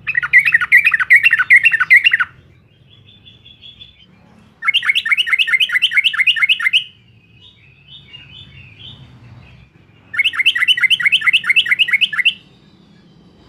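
Yellow-vented bulbul (trucukan) singing its chattering 'uklik-uklik' song. It gives three loud bouts of rapidly repeated bubbly notes, about five a second and each bout about two seconds long, with softer twittering in between.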